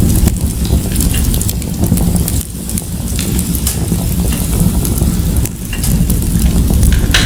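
Fire crackling in a fireplace: irregular sharp pops and snaps over a steady low rumble of flame.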